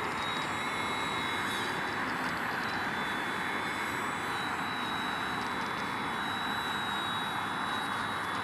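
Small electric RC helicopter flying, still running after being fully submerged: a steady high-pitched motor whine over the rushing of its rotor.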